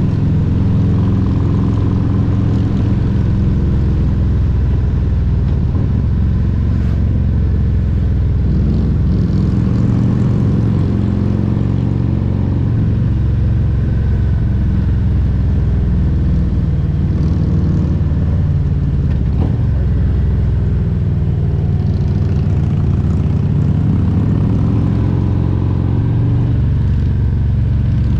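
Harley-Davidson Milwaukee-Eight 114 V-twin engine running, with a deep, steady exhaust note whose pitch shifts a few times.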